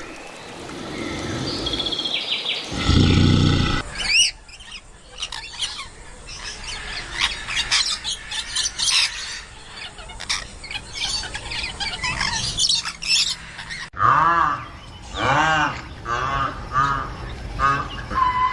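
A run of separate animal clips: a loud, deep animal call for the first few seconds, then birds chirping busily for about ten seconds, then a series of short rising-and-falling calls from another animal, about one a second.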